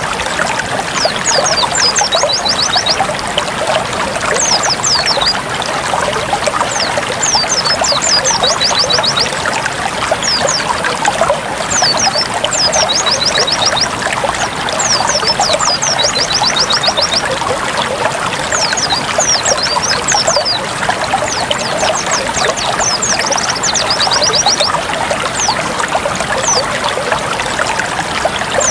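Running water trickling and splashing steadily, with a small bird, a white-eye (pleci), singing short runs of very quick, high chirps every few seconds over it.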